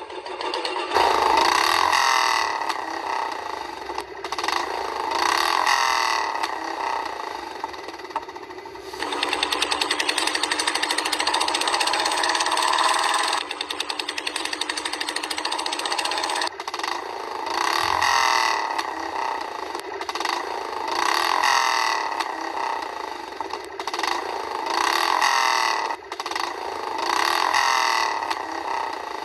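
Small electric motor of a miniature DIY tractor running with a steady buzz, swelling and easing in loudness every couple of seconds as its load changes.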